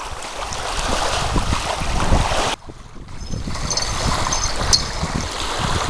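Strong wind buffeting the microphone over rough water lapping at the shore, a storm-driven rumble and hiss. It drops out abruptly for a moment about two and a half seconds in, then picks up again.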